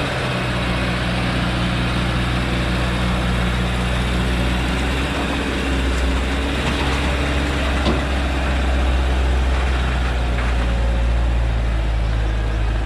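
Heavily loaded truck's diesel engine running in a steady low drone, with road and tyre noise, as the truck descends a hill.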